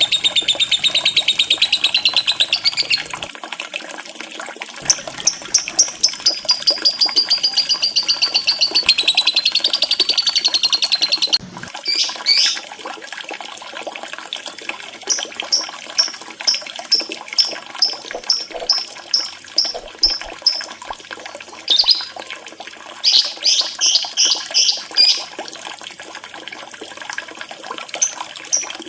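Lovebird calling over a steady trickle of running water: a long, fast, high trilling chatter for about the first eleven seconds, which cuts off abruptly. After that come runs of short, sharp chirps, several a second, with pauses between them.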